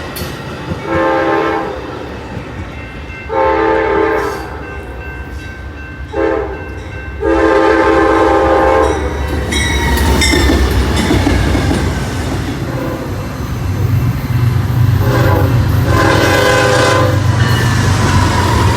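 Train horn sounding two long blasts, a short one and a long one (the standard grade-crossing signal) over the low rumble of a passing train. Wheels clatter on the rails, and two more blasts, short then long, come near the end.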